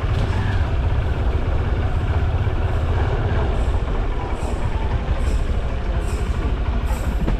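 Steady low rumble and road noise of a motorbike ride, the loudest part a deep, even drone.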